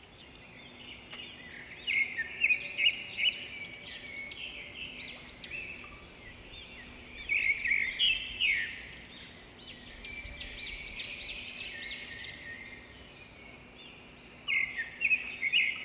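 Birds chirping: a dense run of quick, high chirps that comes in louder clusters about two seconds in, around the middle, and near the end, over a faint steady low hum.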